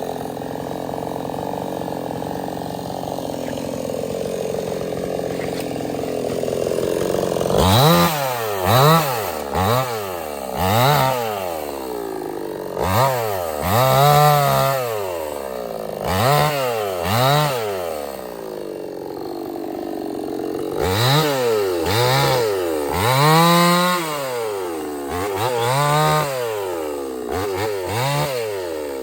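Stihl 070 two-stroke chainsaw running steadily, then revved over and over, the engine pitch rising and falling about once a second in three runs of throttle blips.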